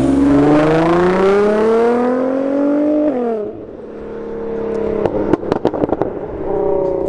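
A tuned car's engine accelerating hard, its revs climbing for about three seconds before dropping sharply at a gear change or lift-off. The engine then runs at lower revs, followed by a burst of sharp cracks, typical of exhaust pops, and another engine note near the end.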